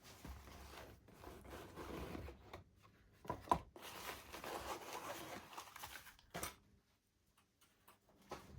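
Small parts being handled on a workbench: soft rustling and scraping with a few sharp clicks, about three and a half seconds in and again past six seconds.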